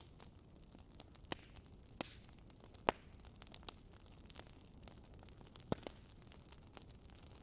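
Wood fire burning in a fireplace, crackling: scattered sharp pops over a faint low hiss, the loudest about three seconds in.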